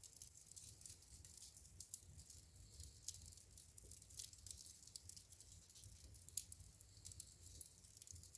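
Wood fire in a fireplace crackling faintly: scattered sharp pops, the loudest about two, three and six seconds in, over a soft hiss and a low rumble.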